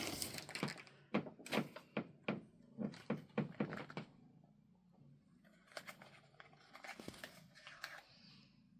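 A quick run of light knocks and taps, about a dozen in the first four seconds, then a few fainter clicks later on.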